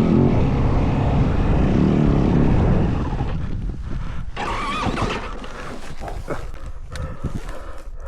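Yamaha WR450F single-cylinder four-stroke dirt bike engine running hard with wind rushing past. About three seconds in it drops off to a quieter, uneven running as the throttle is eased.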